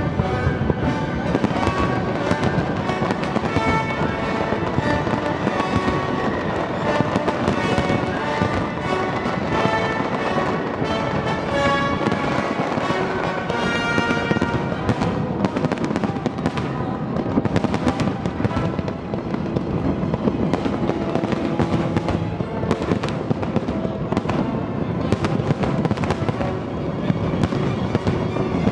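Fireworks display, with many shells bursting in quick succession, the bangs coming thicker in the second half. Music plays loudly alongside, most prominent in the first half.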